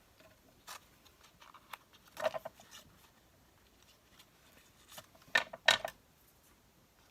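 Scissors cutting a paper tag to shape: a few separate crisp snips, the two loudest close together about five and a half seconds in.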